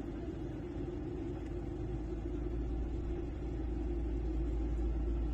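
Steady low rumble and drone of an airliner cabin in flight, engine and airflow noise with a constant hum, growing slightly louder toward the end.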